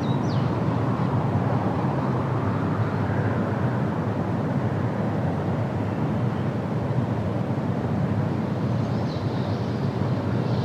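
Steady low rumbling background noise with no clear rhythm or pitch.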